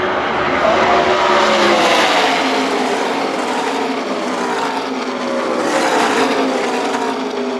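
A pack of NASCAR Truck Series race trucks running at full throttle past the grandstand, many V8 engines at once, their pitch sliding slowly downward as they go by.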